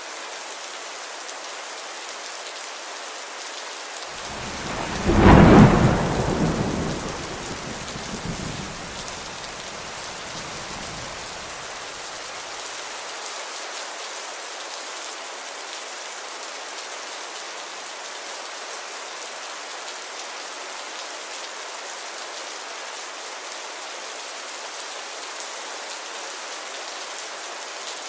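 Steady rainfall, an even hiss with little low end. About four seconds in, a clap of thunder builds, cracks sharply and rumbles away over the next several seconds.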